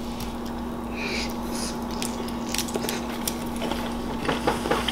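People chewing shrimp, with small mouth sounds and scattered light clicks of fingers and shells on the plate, over a steady low hum.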